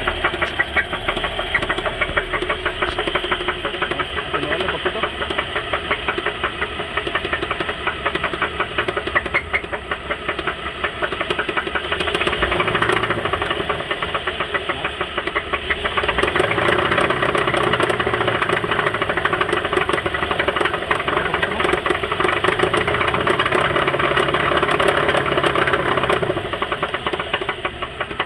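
2011 Buick Enclave's 3.6-litre V6 engine running with a rapid, continuous knocking. It gets louder for about ten seconds past the middle, then settles back. The owner calls it engine knock; it began after the front passenger wheel briefly locked and skidded, and has been getting worse.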